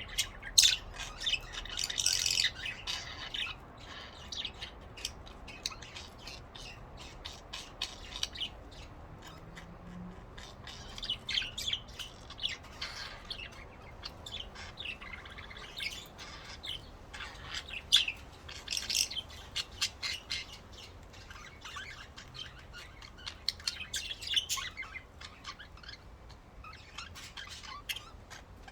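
Pet budgerigars chirping and chattering: many short, high calls scattered throughout, with busier spells.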